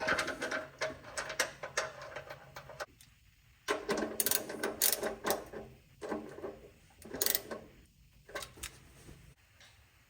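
Ratchet wrench clicking in several quick runs with short pauses between them.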